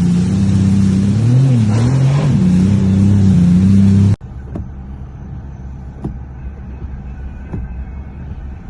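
Engine running loudly and steadily, its pitch dipping and rising briefly at about a second and a half to two seconds in. About four seconds in the sound cuts off abruptly to a quieter low rumble with a few scattered knocks.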